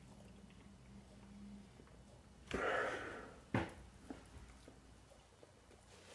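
A man eating bananas: a short, loud breath through the nose about two and a half seconds in, then a sharp click a second later, with faint small mouth and handling sounds.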